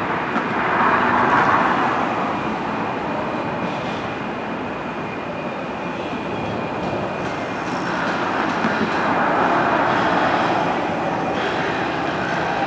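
A train running past with a steady rumbling noise that swells louder about a second in and again toward the end.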